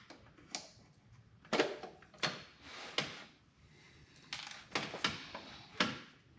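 Irregular clicks and knocks of plastic and metal engine parts and tools being handled, about eight sharp ones spread through.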